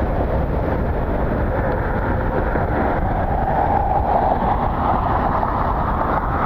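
Strong gusty wind buffeting the microphone: a steady rushing noise with a low rumble, swelling slightly about midway.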